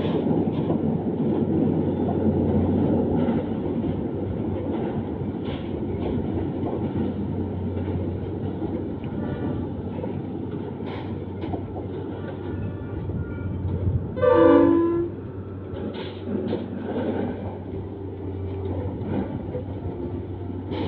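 Harsco track-laying machine train and its wagons of concrete sleepers moving along the rails: a steady rumble of wheels with a constant low engine hum. About two-thirds of the way through comes one short, loud horn blast.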